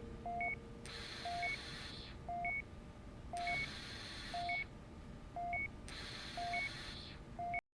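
Electronic beeping about once a second, each beep a low and a high tone together, over a breathy hiss that swells for about a second every two and a half seconds. The sound cuts off abruptly near the end.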